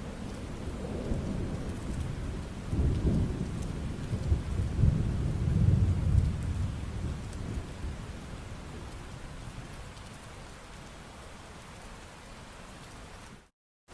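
Steady rain falling, with rolling thunder that swells twice in the first half and fades out. The rain cuts out to silence for a moment near the end.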